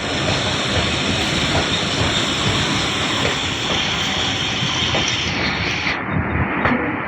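Passenger train moving on the track, a steady rush with wheels clicking over the rail joints; the high hiss in the noise drops away about six seconds in.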